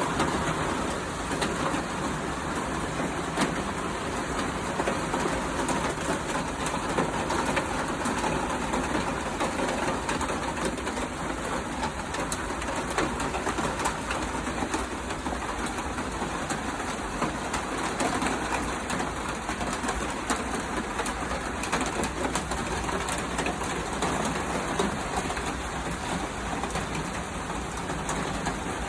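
Steady rain falling, an even hiss of drops with fine pattering ticks throughout.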